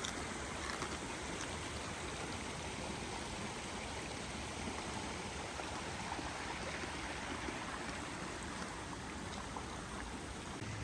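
A stream running steadily: a constant, even rush of flowing water.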